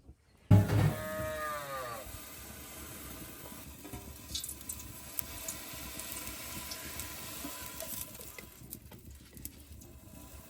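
A cow moos once, loudly, about half a second in; the call lasts about a second and a half and falls in pitch. A steady hiss with scattered light ticks follows.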